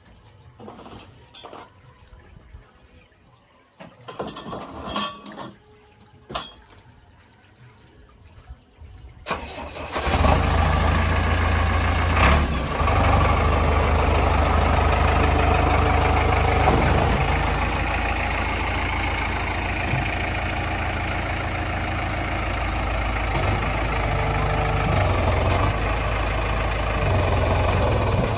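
A few faint knocks, then about ten seconds in a heavy vehicle's diesel engine cranks and starts. It settles into a steady, loud idle.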